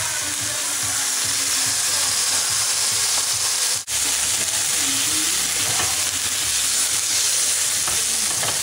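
Chicken strips sizzling in hot oil in a nonstick frying pan as a spatula turns them. The sizzle is steady and drops out for an instant about four seconds in.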